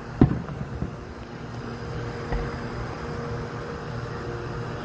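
Distant fireworks going off: one sharp boom about a quarter second in, then a few fainter pops. Under them run a steady low hum and a high, evenly pulsing chorus of night insects.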